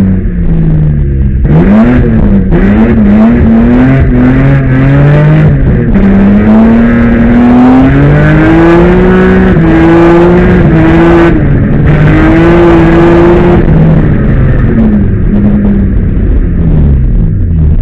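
Loud engine of a BMW E30 fitted with an M5 engine, revved hard, its pitch climbing and dropping again and again with quick lifts and shifts as the car is thrown sideways through an autoslalom course.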